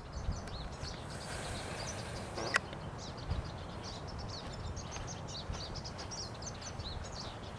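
Small birds chirping busily, many short quick calls, over wind rumbling on the microphone. One sharp click about two and a half seconds in.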